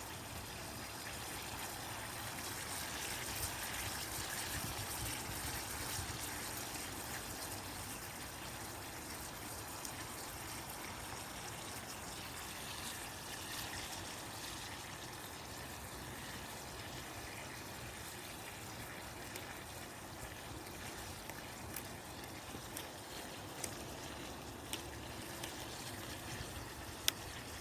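Chicken pieces sizzling in a pan: a steady hiss, with a few sharp pops near the end.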